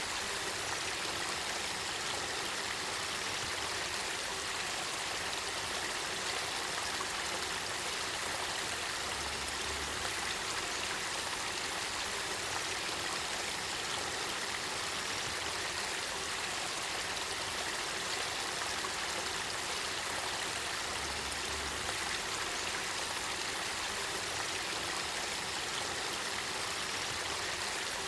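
Spring-fed river water flowing and burbling, a steady even rush with no breaks.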